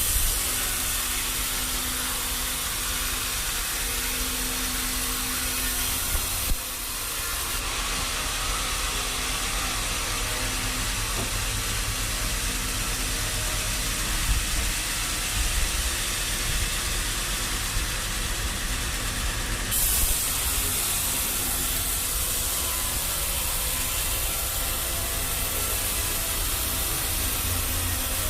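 Sawmill machinery running steadily, an engine rumbling under a hissing saw noise; the hiss grows brighter for the first several seconds and again for most of the last third, as a saw cuts through the log.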